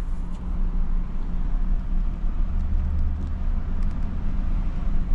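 Car driving, heard from inside the cabin: a steady low rumble of engine and tyres with a hum, swelling briefly about three seconds in.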